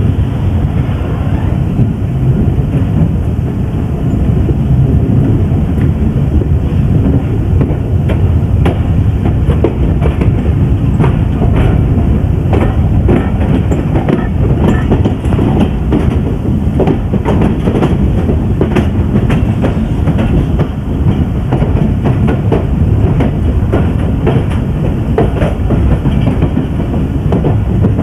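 Pakistan Express passenger train running along the track: a steady low rumble with the wheels clicking over rail joints, the clicks coming thicker after the first several seconds.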